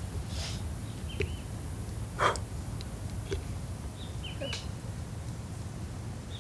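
Tropical forest ambience: a bird repeats a short, arched call every few seconds over a steady low rumble, with one sharp click about two seconds in.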